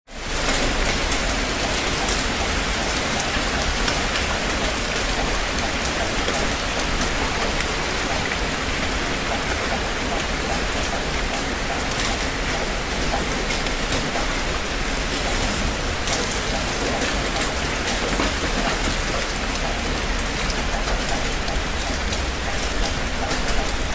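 Heavy rain falling steadily: a dense, even hiss dotted with many separate drop hits. It fades in quickly at the start.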